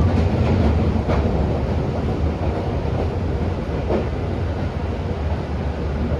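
Tobu 10000 series commuter train running on the rails: a steady low rumble of wheels on track, with a few rail-joint clicks. The rumble slowly gets a little quieter.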